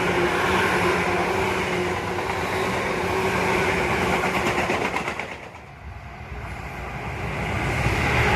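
Tobu Tojo Line electric train passing close by, with a run of rail-joint clicks as the last cars go past. The sound drops away about two-thirds of the way in, then builds up again as another train approaches.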